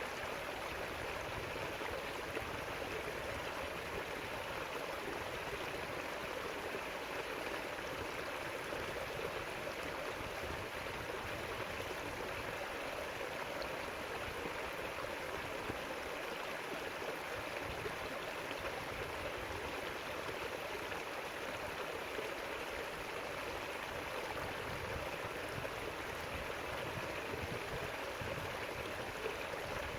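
River water rushing and burbling over its bed, a steady even flow.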